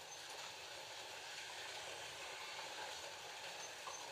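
FLY Classic slot cars with original 19K electric motors running around the track: a steady whir and hiss.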